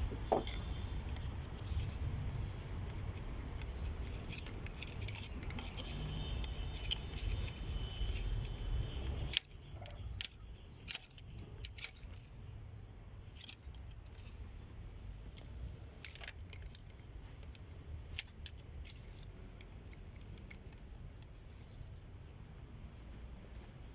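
Metal hand tools clicking and scraping on engine parts during cleaning. A low steady rumble cuts off suddenly about nine seconds in, and after that only scattered clicks are left.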